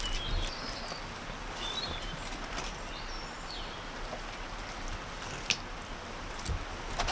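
Outdoor ambience with a few short bird chirps over a steady background hiss, and a couple of sharp clicks, one about two-thirds of the way in and one near the end.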